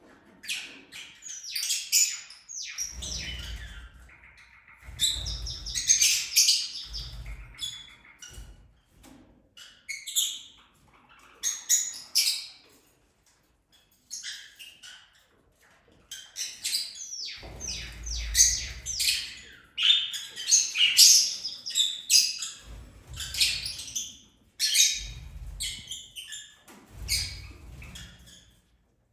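Pet lovebirds chirping and squawking in repeated high-pitched bursts with short pauses, over intermittent low rumbles.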